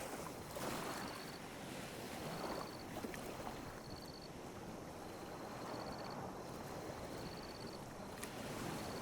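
Small ocean waves lapping on a beach: a continuous soft rush of water that swells and eases. A faint, high trilled chirp repeats about every second and a half.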